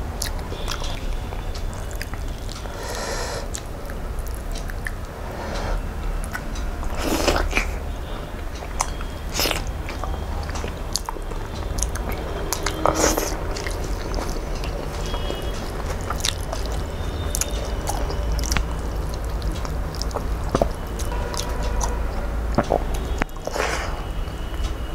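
Chewing and mouth sounds of a man eating rice and curry with his hand, with irregular mouth clicks and smacks.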